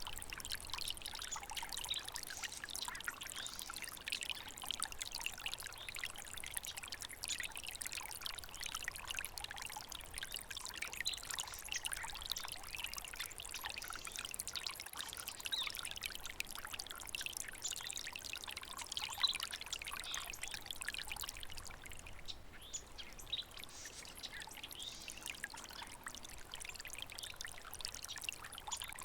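Small water stream trickling and babbling steadily over stones.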